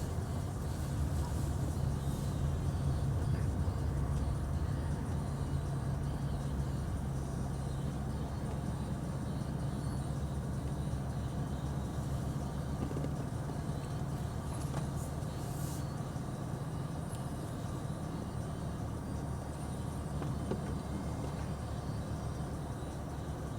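Steady low vehicle rumble with a constant droning hum, and no sharp events.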